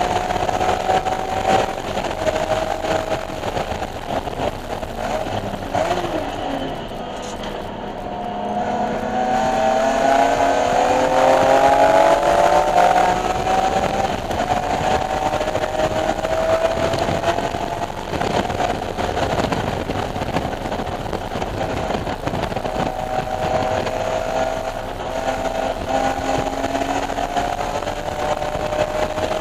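BMW E46 M3's S54 straight-six engine being driven hard on a race track, its pitch rising and falling through gear changes. The revs drop around seven seconds in and then climb to the loudest point about twelve seconds in.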